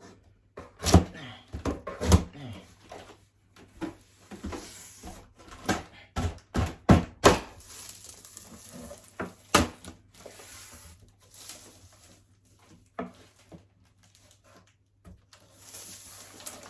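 Large cardboard box being cut open with a hook and handled: scattered knocks and thumps, with a few short stretches of scraping.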